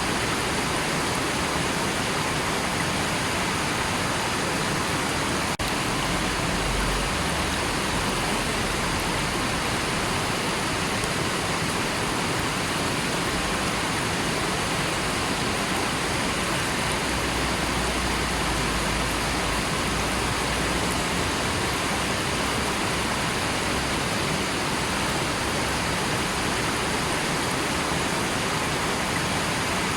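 River water rushing in a steady, even wash, with a deeper low rumble swelling twice.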